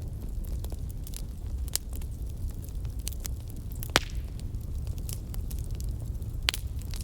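Fire crackling: scattered sharp pops and snaps over a steady low rumble, the loudest pop about four seconds in and another near the end.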